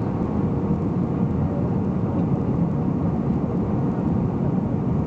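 Steady cabin noise inside an Airbus A320: a low, even rush of engine and airflow noise with a faint steady hum.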